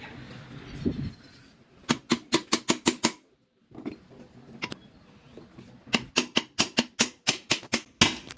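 Quick runs of hammer blows on metal, several a second, one run about two seconds in and a longer one about six seconds in, knocking on a driveshaft universal joint to drive out its worn bearing cups.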